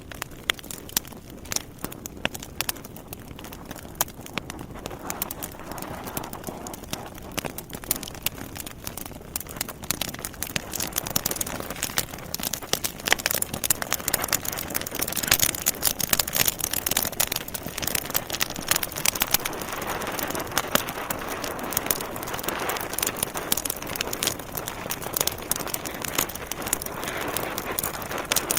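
Log fire in a fireplace crackling and popping over a soft hiss of burning, the crackles coming thick and irregular; they grow denser and louder about ten seconds in.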